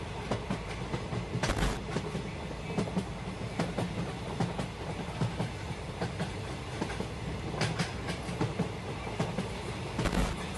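Train running on track: a steady rumble with wheels clacking irregularly over rail joints, and louder clacks about a second and a half in and near the end.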